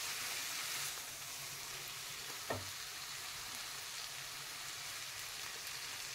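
Chopped fenugreek leaves and spice masala sizzling faintly in oil in a nonstick kadhai while being stirred with a spatula. There is a single light knock about two and a half seconds in.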